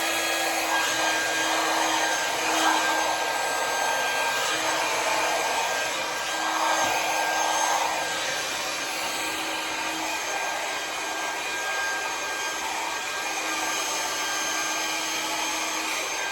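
Conair hair dryer with a nozzle attachment blowing steadily during a round-brush blowout. Its rush of air carries a faint hum that cuts in and out.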